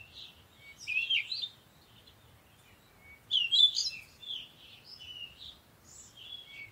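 Songbirds singing: quick chirping, warbling phrases, the loudest bursts about a second in and again a little past three seconds in.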